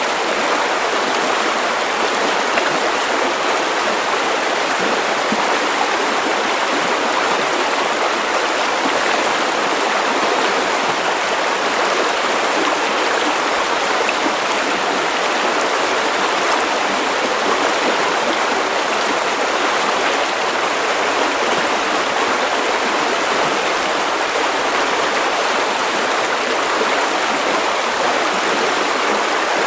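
River water running over stones, a steady, continuous rushing and babbling.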